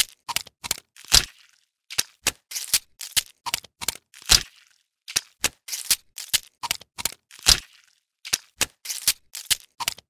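Scorpion sound effect: a string of sharp, irregular clicks and cracks, two to four a second, with a louder crack about every three seconds and brief pauses between runs.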